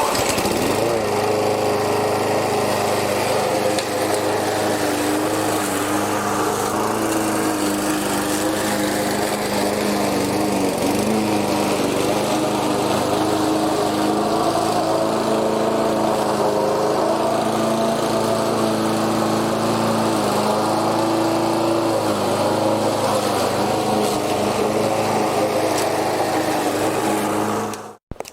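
Sovereign rotary lawnmower's Briggs and Stratton single-cylinder engine running steadily while cutting grass, its pitch wavering slightly with the load. It cuts off suddenly near the end.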